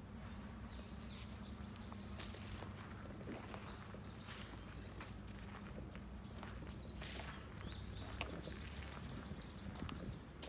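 Small birds chirping over and over in short high calls, with scattered crunching sounds and a faint low steady hum underneath.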